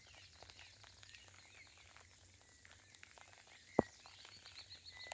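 Light rain pattering in small scattered ticks, with songbirds chirping and a quick high trill near the end. One louder sharp tap comes about four seconds in.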